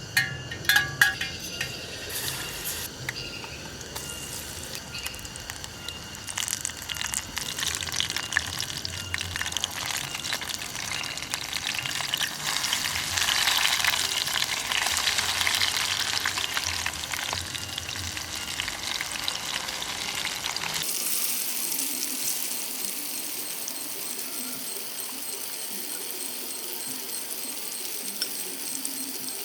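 Banana fritters frying in hot oil: a crackling sizzle, with a few sharp knocks in the first second, that grows louder toward the middle. About two-thirds of the way through the sound changes abruptly to a thinner, steady hiss.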